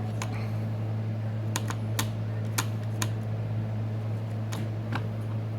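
Small tools clicking and tapping against the phone's frame in an irregular series of sharp clicks, over a steady low electrical hum.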